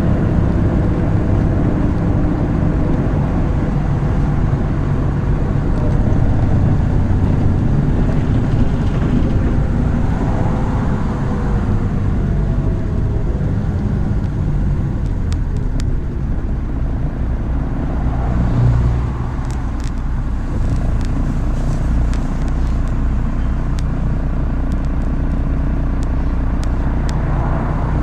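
MAZ-103 city bus driving, heard from on board: steady diesel engine drone and road noise, with a whine that glides in pitch during the first half and scattered light clicks and rattles in the second half.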